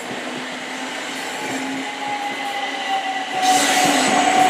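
Passenger train moving through the station, with a steady whine that slowly falls in pitch and a rush of wheel and rail noise that grows louder about three and a half seconds in.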